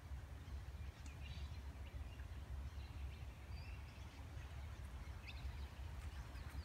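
Faint, scattered bird chirps over a steady low rumble of outdoor background noise.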